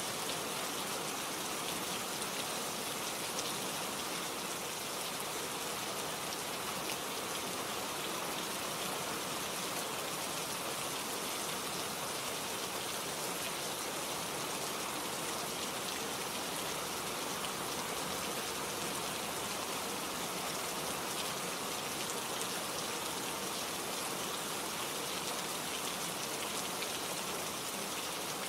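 Steady rainfall, with the fine patter of many drops striking foliage and surfaces.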